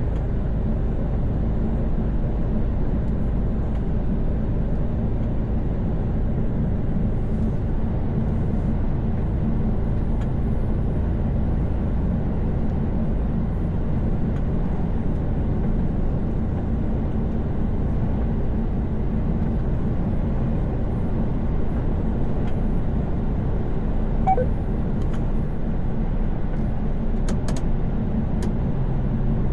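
Steady low drone of a truck's engine and tyres, heard from inside the cab while driving. A single short high blip sounds about three-quarters of the way through.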